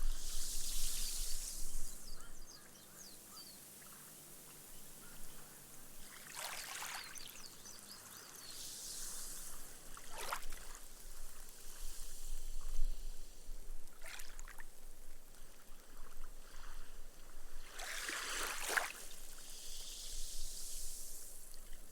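Gentle ripple waves washing up a sandy beach and sinking into the sand, the foam fizzing away. Soft hissing washes are broken by a few brief lapping splashes, the strongest late on.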